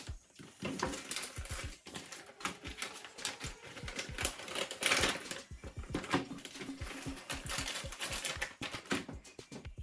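Rapid, irregular light clicks and clinks of metal clutch plates and parts from a Mercedes 722.9 automatic transmission being handled and set down on a bench.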